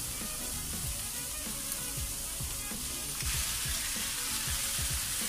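Diced vegetables sizzling in a frying pan over high heat. About three seconds in the sizzle gets louder as raw chicken chunks are tipped into the hot pan.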